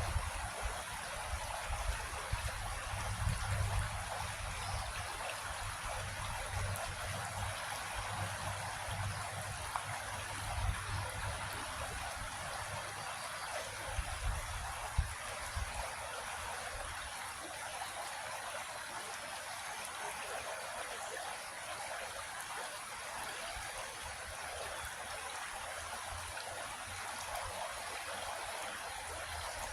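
Creek water flowing and trickling in a steady, even rush, with intermittent low rumbling during about the first half.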